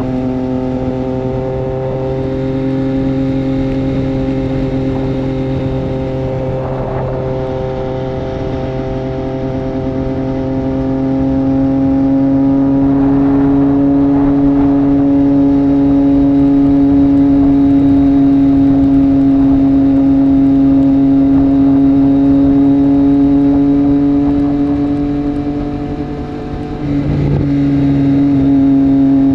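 Triumph Street Triple 765 RS inline-three engine through a Racefit Growler full exhaust, running at a steady cruise. The drone rises gently about ten seconds in, then dips briefly near the end as the throttle is rolled off and picks back up.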